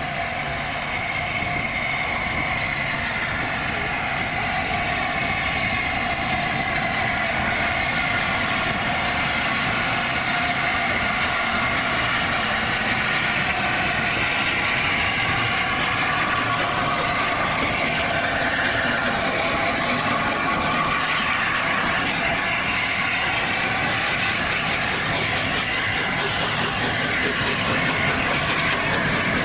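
A steam-hauled train running steadily on the rails: a continuous, even rumble with hiss.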